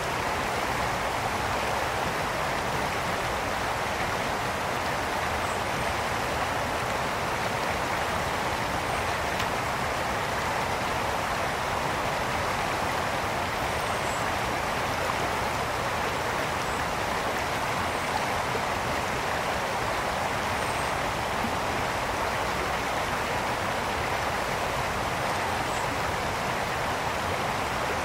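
A brook flowing, a steady rushing babble of water with no change in level, and a few faint high chirps now and then.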